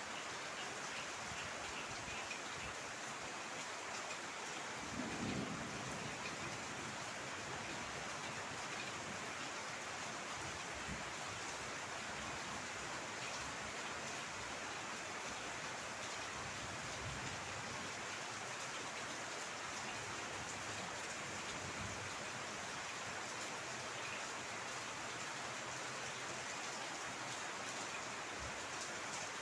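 Heavy rain falling steadily, with a brief low rumble about five seconds in.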